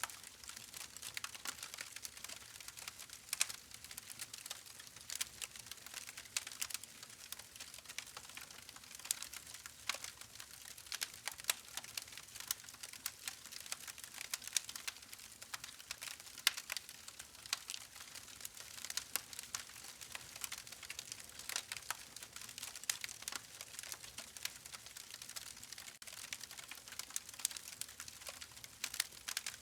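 Wood campfire crackling, with a steady stream of irregular sharp pops and snaps over a soft hiss.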